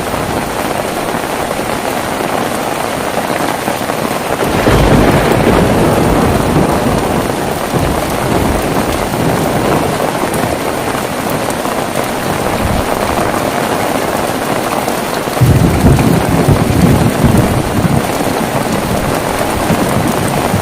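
Heavy rain falling steadily, with rumbles of thunder, one about four seconds in and a louder one about three-quarters of the way through.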